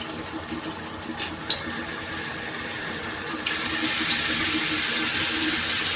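Hibbent all-metal handheld shower head spraying water, with a few sharp clicks in the first second and a half as the spray-setting face is turned. About three and a half seconds in, the spray changes pattern and turns louder and hissier.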